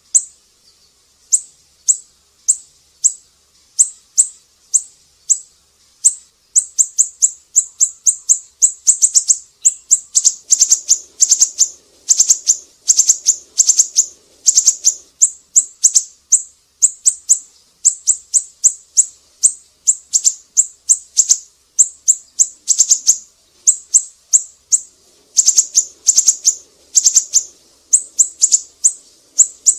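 A siri-siri bird singing actively: a long series of short, sharp, high-pitched chirps. They come singly at first, then about six seconds in quicken into fast runs of several chirps a second.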